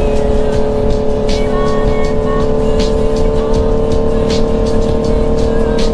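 Motorcycle engine running at a steady high pitch, creeping slightly higher, as the bike is ridden. Music plays along with it, with a beat that repeats about every second and a half.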